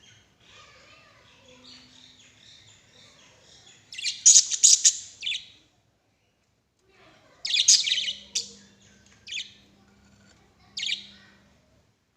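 Lovebirds chirping: soft high chatter at first, then loud high-pitched bursts of chirps about four seconds in and again a few seconds later, with two short chirps near the end.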